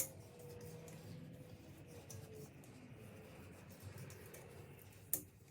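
A 3/8-inch tap being turned by hand in an oil hole in an LS engine block, cutting threads with a faint, steady scraping. A sharp click about five seconds in.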